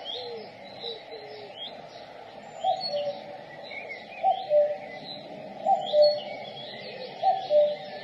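Common cuckoo (Cuculus canorus) calling its two-note "cuck-oo", a higher note falling to a lower one, four times about one and a half seconds apart starting a little under three seconds in. Other small songbirds chirp faintly in the background throughout.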